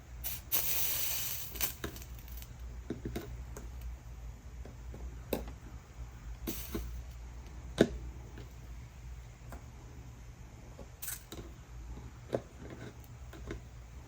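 Light taps and clicks of a soldering iron and small tools on glass and the workbench, scattered irregularly with one sharper tap about eight seconds in, after a brief hiss near the start, over a steady low hum.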